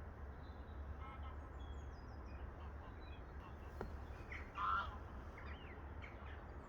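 Birds calling over the lake: scattered short calls, the loudest a brief call about four and a half seconds in, over a steady low rumble.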